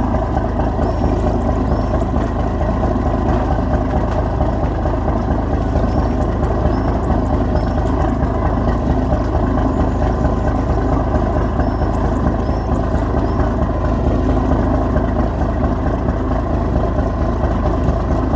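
Inboard diesel engine of a 49-foot Seike Zosen long-cabin boat running steadily: a dense, even low rumble. Small groups of faint high chirps come and go several times over it.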